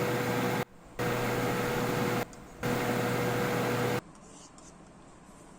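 HP laptop's cooling fan running loud, a steady whirring hiss with a held hum tone, the noise the uploader blames on processor overheating. It drops out briefly twice and cuts off about four seconds in, leaving quiet room tone with a few faint clicks.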